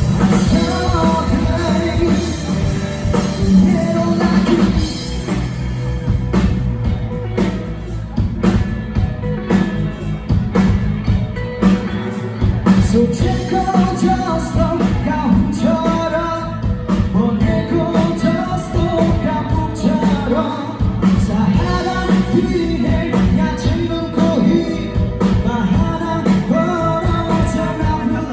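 Live rock band playing a song at full volume: a singer over a drum kit and guitars.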